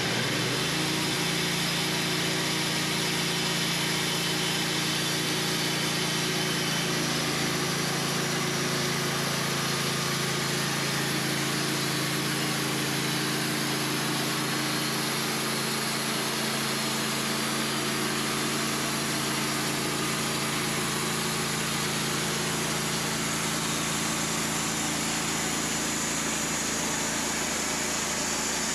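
Wood-Mizer LT15 portable band sawmill running steadily: an even engine hum with the hiss of the running band blade over it.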